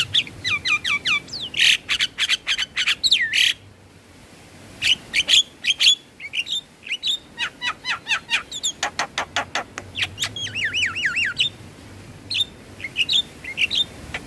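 Javan myna calling: rapid runs of sharp chattering notes and whistles, with a run of looping whistles past the middle and a brief lull a few seconds in.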